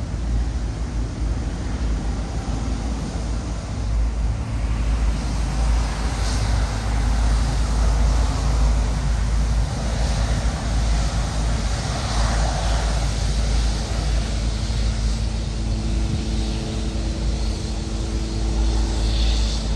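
Jet airliner engine noise, a broad rushing sound that swells in the middle, with a few steady tones appearing near the end. Under it runs a constant low rumble of wind on the microphone.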